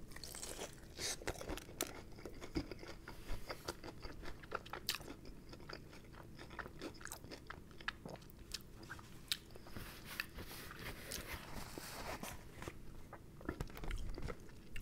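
Chewing a bite of crispy fried chicken, with many short crunches of the fried skin.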